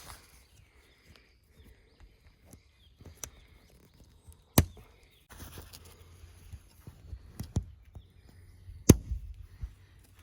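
Scattered sharp knocks and clicks with some rustling between them; the two loudest come about four and a half and nine seconds in.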